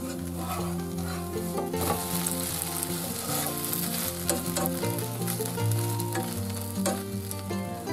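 Grated cabbage and potato flatbread sizzling in hot oil in a frying pan, the sizzle growing stronger about two seconds in. A slotted metal spatula scrapes and clicks against the pan as it is slid under the flatbread.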